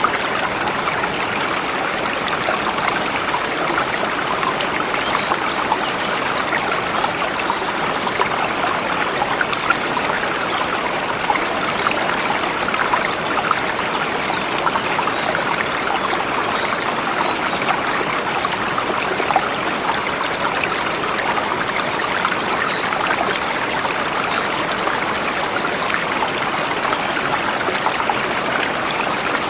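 Forest river flowing over rocks: a steady rush of water with constant small splashes and gurgles.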